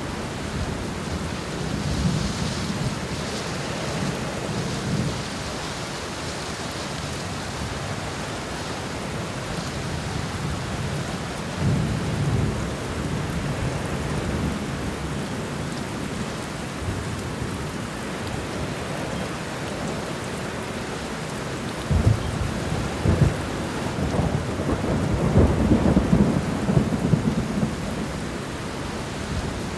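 Thunderstorm: steady rain falling throughout, with low rolling rumbles of thunder. A sharper clap of thunder comes about two-thirds of the way in, followed by a longer, louder rumble.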